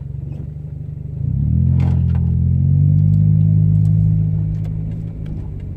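Car engine heard from inside the cabin as the car accelerates: it picks up about a second in, rising a little in pitch and getting louder, holds steady for a couple of seconds, then eases off near the end.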